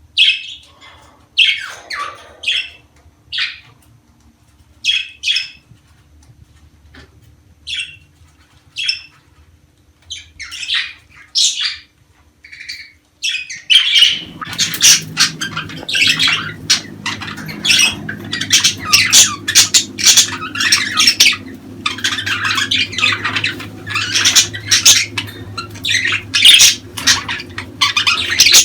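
Budgerigars calling: scattered short chirps and squawks at first, then from about halfway a dense, continuous chatter of many overlapping calls over a low hum.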